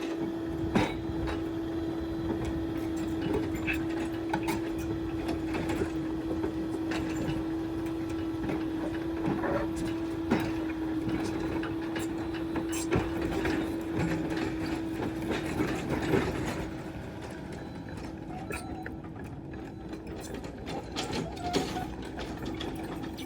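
Excavator running at work, with a steady whine held on one pitch and scattered knocks and clatters over it; it drops somewhat in level about two-thirds of the way through.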